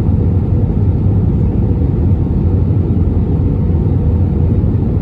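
Airbus A320neo cabin noise heard from a window seat: a steady, loud low rumble of engines and airflow with a faint steady hum above it.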